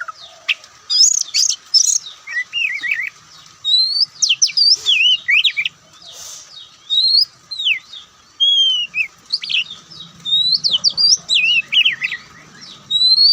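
Oriental magpie-robin singing: varied phrases of loud, clear whistled notes that sweep up and down in pitch, with short pauses between phrases.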